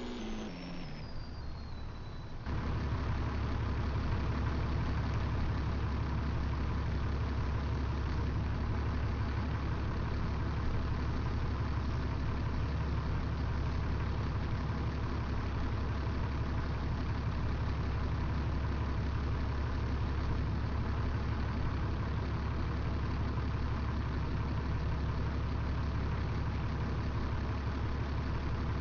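A truck's engine idling steadily. It comes in abruptly, louder, about two seconds in, after a short falling series of electronic tones.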